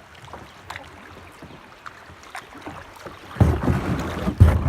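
Kayak paddling on a creek: light knocks and water splashes from the paddle and hull. About three and a half seconds in, a much louder rushing noise sets in, with a heavy thump shortly before the end.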